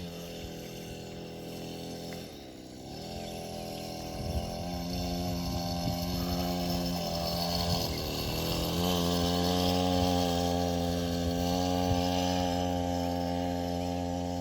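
Small motocross bike engine running at a steady pitch, with two brief dips in engine speed, growing louder as it comes closer.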